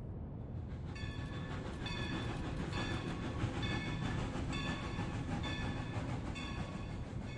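Train running on rails: a steady rumble with a rhythmic clatter repeating about once a second.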